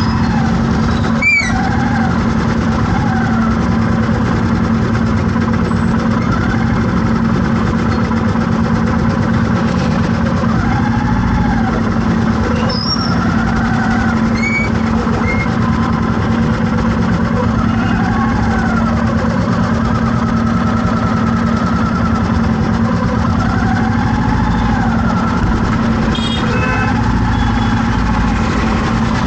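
Vehicle engine running steadily in road traffic, its pitch rising and falling every few seconds. Short high beeps sound a few times.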